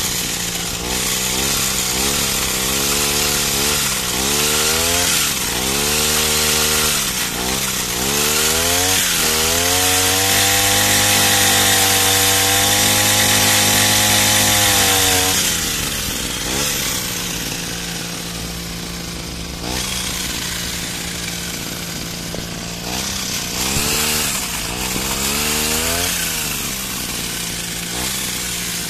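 Petrol pole pruner's small chainsaw engine revved up and down in repeated throttle blips, then held at high revs for about five seconds before dropping back to a steady idle about halfway through. A few more short revs come near the end.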